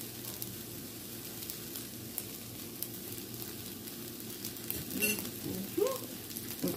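Fried rice sizzling in a skillet on the stove, with fine crackles over a steady low hum. A brief louder rustle comes about five seconds in.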